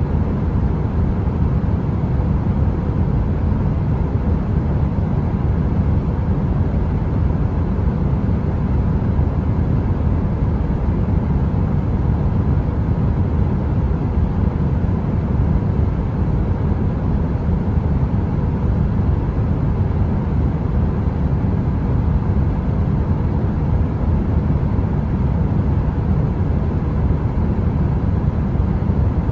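Heater white noise: a steady, deep rumble with a faint hum of two steady tones above it, unchanging throughout.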